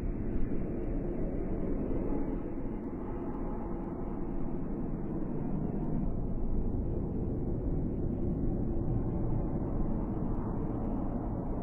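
A steady low rumble with no distinct events, like distant engine or aircraft noise.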